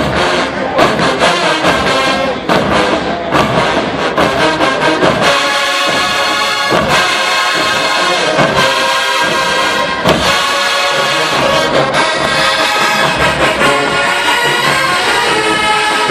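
HBCU marching band playing loudly, a full brass section of trombones and trumpets over drum hits.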